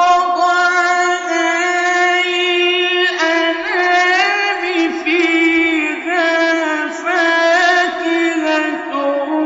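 A male Quran reciter's voice in melodic mujawwad recitation, holding one long, unbroken note that wavers and turns in small ornaments.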